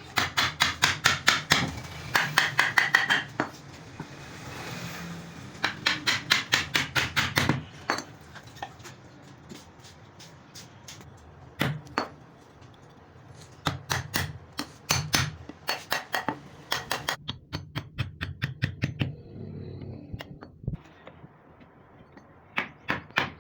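Hammer tapping on wood in quick runs of about six strikes a second, with short pauses between the runs.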